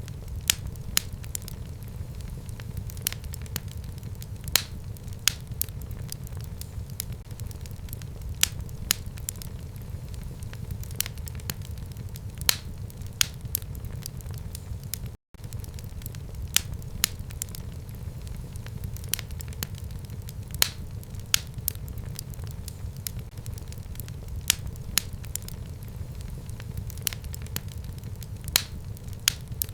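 Wood fire burning in a fireplace: a steady low rumble of the flames with irregular sharp crackles and pops. The sound cuts out for an instant about halfway through.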